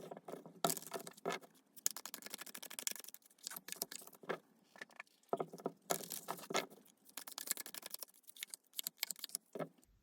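Tarot cards being shuffled by hand: a dense, irregular patter of card edges clicking and rustling, in several runs with brief pauses between them.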